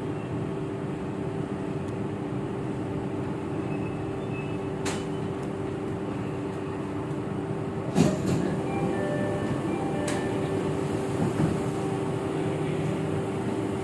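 Jakarta MRT train running between stations, heard inside the car: a steady rumble with a constant hum, broken by a few sharp clicks or knocks, the loudest about eight seconds in.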